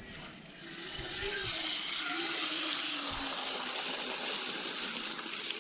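Pressurized water spraying from a garden hose that has blown off its fitting at the camper's water port. It is a steady hiss that builds up about half a second in.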